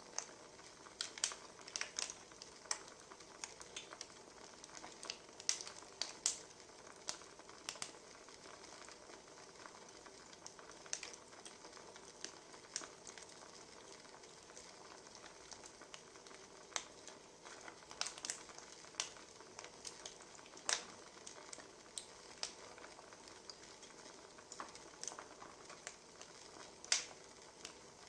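Wood fire crackling: a steady faint hiss with sharp, irregular pops and snaps.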